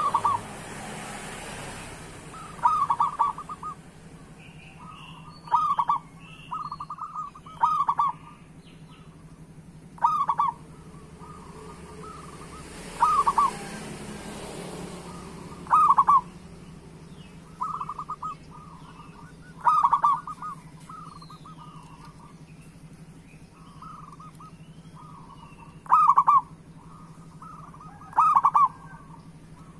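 Zebra dove (perkutut) cooing: short, loud coo phrases come about every two to three seconds, with softer coos between them. Faint higher chirps and a steady low hum sit underneath.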